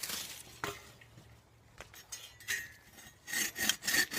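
Fiskars hand saw cutting into the trunk of a small bay tree: a few scattered taps and scrapes as the blade is set, then about three seconds in, quick, even back-and-forth sawing strokes, several a second.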